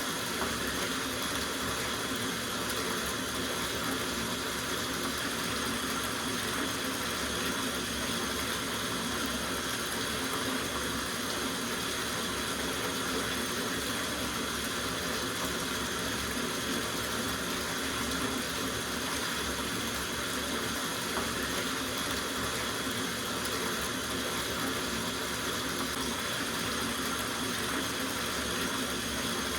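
Tap water running steadily into a soaking bathtub, a continuous even rush with no change.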